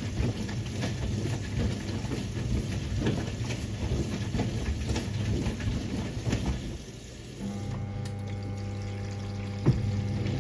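1978 Siemens WA4600 front-loading washing machine mid-wash: water sloshes as a load of jeans tumbles in the drum. About seven seconds in the tumbling stops and a steady electric hum takes over, with a single sharp click near the end.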